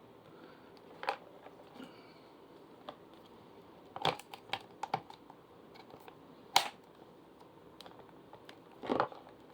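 Scattered clicks and knocks of plastic parts of a Britânia electric fan being handled and fitted together, about half a dozen, the sharpest about six and a half seconds in.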